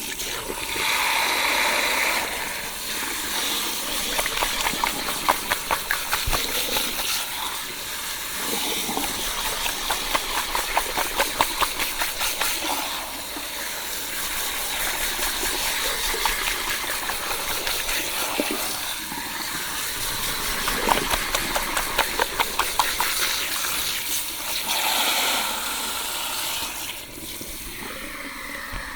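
Salon shampoo: water running from a shower head onto wet hair, a steady hiss that surges at times, with stretches of rapid rubbing and crackling as fingers work through the hair.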